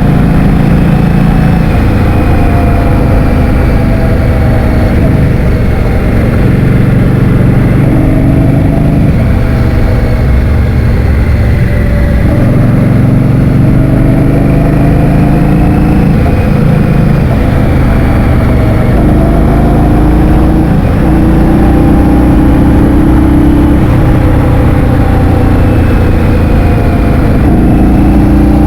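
Heavy wind rumble on the microphone of a moving vehicle, over a running engine whose pitch drifts gently up and down.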